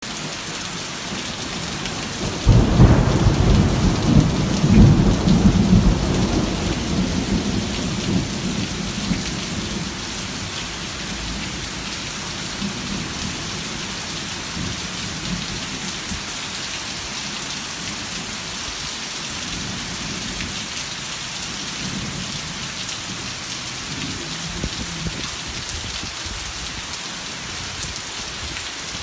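Rain falling steadily, with a loud thunderclap about two and a half seconds in that rumbles and fades away over several seconds. Fainter rumbles of thunder come later.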